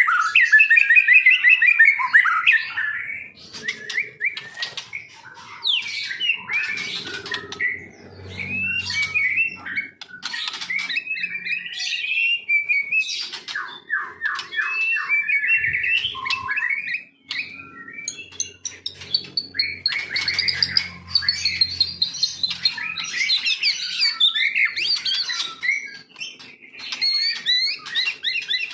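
White-rumped shama (murai batu) singing a long, varied song of whistles, pitch glides, chatters and rapid rattling trills, with short pauses between phrases.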